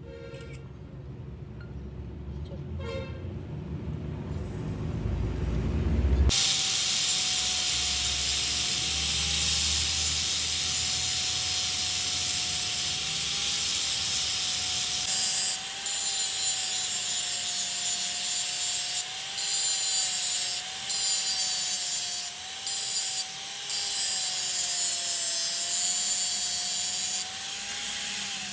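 Power tool working iron: a low running hum builds over about six seconds, then a loud hissing cut with a steady, slightly wavering whine starts suddenly. The cut breaks off briefly several times.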